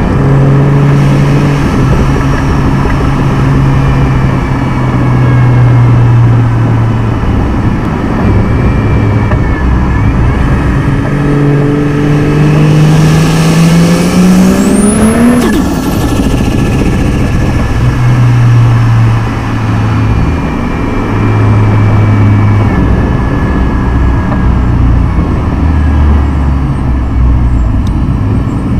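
Turbocharged inline-six car engine cruising steadily, then, about halfway through, accelerating hard in one gear with a rising turbo whistle before lifting off sharply and settling back to a steady cruise.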